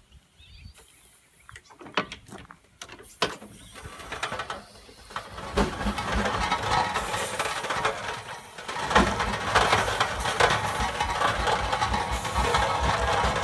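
Steam engine being set going: a few clicks and knocks, then a hiss of steam that builds from about four seconds in and runs on loud and steady.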